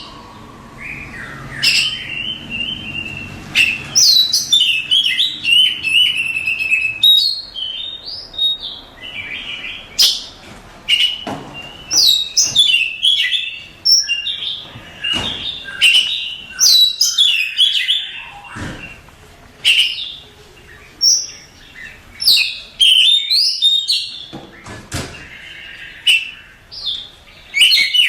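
Oriental magpie-robin singing a varied run of whistled phrases: rising and falling notes and sharp chips in quick bursts, with brief pauses between phrases.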